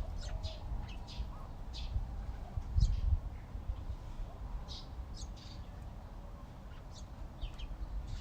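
Backyard songbirds chirping: short, scattered high chirps, a few at a time, over a low rumbling noise that swells about three seconds in.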